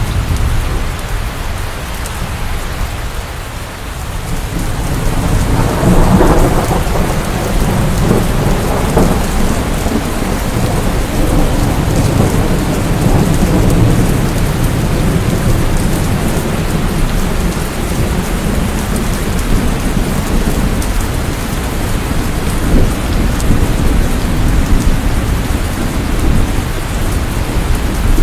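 Steady rain with thunder rumbling low beneath it; the rumble swells about six seconds in and keeps rolling unevenly.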